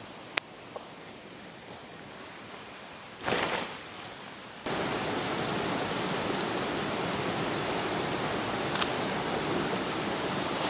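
Steady rush of a flowing river, fairly quiet at first with a faint click and a brief rustle, then abruptly much louder about four and a half seconds in and holding steady.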